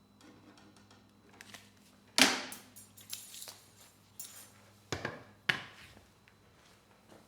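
Hand tools and metal hardware clinking and knocking during hands-on work on a lawn mower: a run of sharp clicks and clatters, the loudest about two seconds in, with more knocks around five seconds in.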